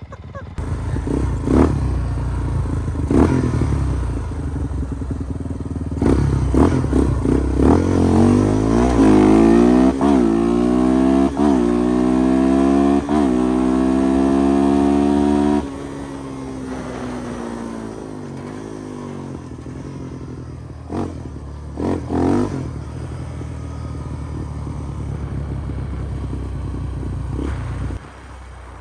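A single-cylinder off-road engine accelerates hard, its pitch climbing in several steps as it shifts up through the gears. It cuts back suddenly as the throttle closes about halfway through, then runs on at a lower, steady pitch, with a few sharp knocks and clatters.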